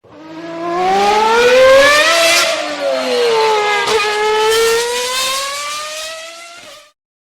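Car engine revving: the pitch climbs, eases down in the middle, climbs again and then cuts off suddenly.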